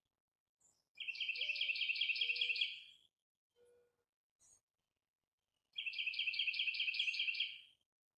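A songbird singing two short trills, each a rapid run of about ten identical high notes at roughly five a second and lasting about two seconds, a few seconds apart.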